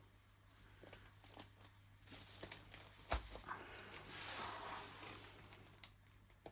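Large diamond painting canvas being unrolled and handled, its plastic cover rustling and crinkling, with a few light clicks and a single thump about three seconds in.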